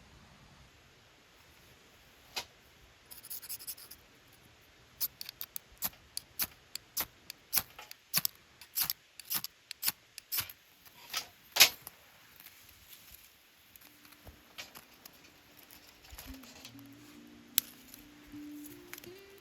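A run of sharp, irregular snips or clicks, about two a second, for around ten seconds. Soft music comes in near the end.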